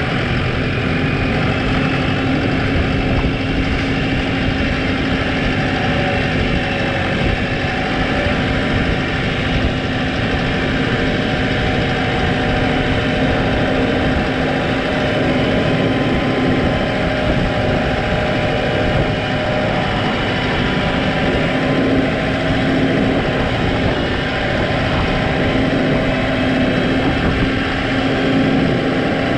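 New Holland T5 tractor's diesel engine running steadily at constant speed, with an even hum.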